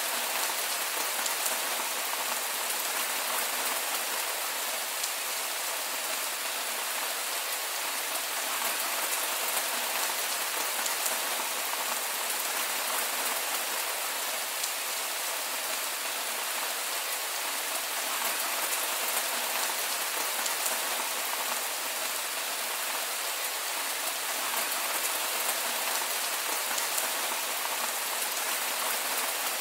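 Heavy rain falling steadily: a dense, even hiss with scattered sharper hits of individual drops.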